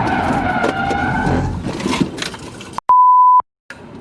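Crash aftermath: a wavering high squeal for about a second and a half, then fading. About three seconds in, the sound drops out and a half-second, 1 kHz censor bleep replaces it.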